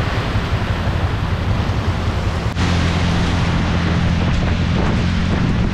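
Heavy rain falling, an even hiss with a steady low hum of traffic underneath. The sound breaks off for an instant about two and a half seconds in and comes back a little louder.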